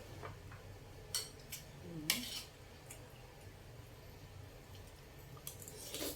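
Eating utensils clinking and scraping against a bowl of noodle soup: a few short, sharp clinks about a second in, a louder one around two seconds in, and another pair near the end.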